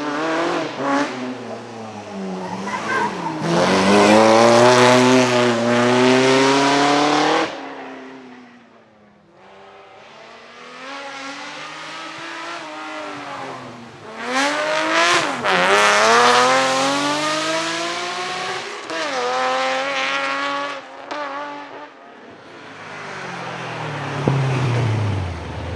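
Vintage racing car engines accelerating hard, the note climbing and dropping back at each gear change. Three separate runs are heard, and the first cuts off suddenly about seven seconds in.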